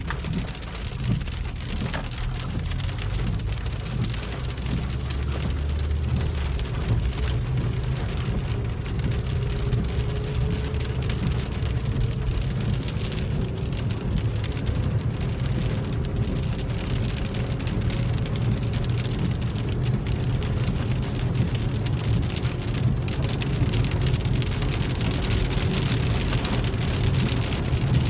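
Rain drumming steadily on a car's roof and windshield, heard from inside the cabin, over a constant low rumble.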